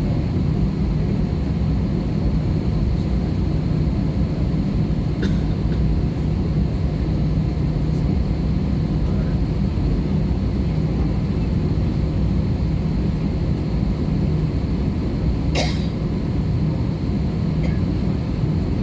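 Steady cabin noise of an Airbus A320-214 in flight, a loud even rush of engine and airflow with a low hum. A brief sharp sound cuts through once about fifteen seconds in.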